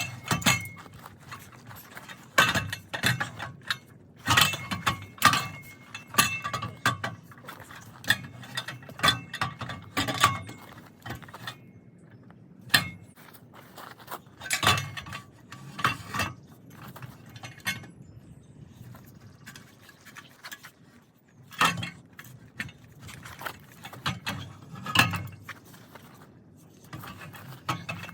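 Metal tools and parts clinking and clanking in irregular clusters, some strikes leaving a brief metallic ring.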